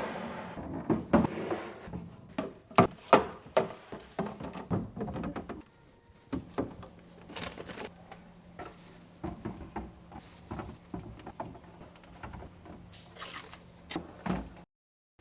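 Items being handled and set down in the cabinet under a kitchen sink: a run of knocks, clicks and thunks of bottles and containers, busiest in the first five seconds and sparser after. A low steady hum sits behind from about six seconds in, and the sound cuts off suddenly just before the end.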